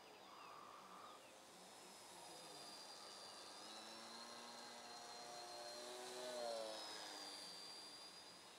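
Faint buzz of a foam Nutball RC plane's electric motor and propeller flying past. It grows louder to a peak about six and a half seconds in, drops in pitch as it passes, then fades.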